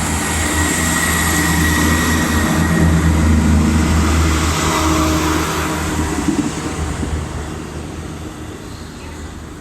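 Class 158 diesel multiple unit pulling away under power, its underfloor diesel engines droning. The sound builds to its loudest midway, then fades steadily as the train draws away.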